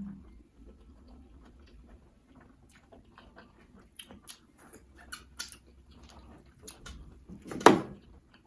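Close-miked eating sounds of fufu with slimy ogbono and egusi soup: wet mouth clicks and smacks while chewing, with one louder wet smack near the end.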